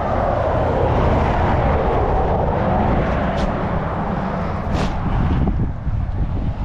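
Passing road traffic: steady engine and tyre noise from vehicles on the road, swelling early and easing off later, with two light clicks in the middle.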